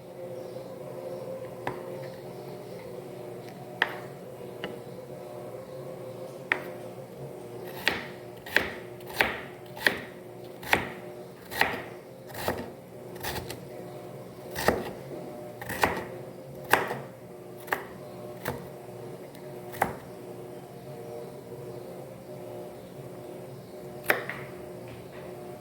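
Knife chopping food on a cutting board: irregular sharp knocks, a few scattered at first, then a run of about one to two a second through the middle, then a few more near the end, over a steady low hum.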